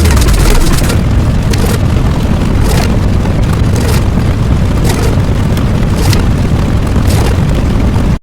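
Loud, distorted rumbling sound effect with heavy bass and a faint pulse about once a second, cutting out suddenly at the very end.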